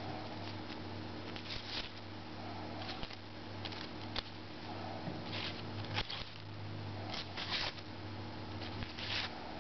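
Thin cigarette paper rustling in about seven short swishes as it is handled and sliced with a freshly sharpened knife, over a steady low hum.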